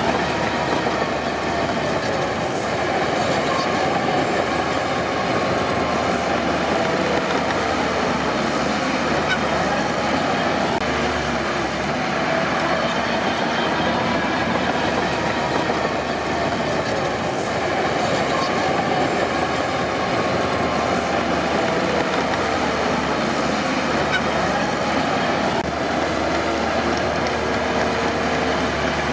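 Crawler bulldozer working: diesel engine running steadily, with steel tracks clanking and a wavering metallic whine over it.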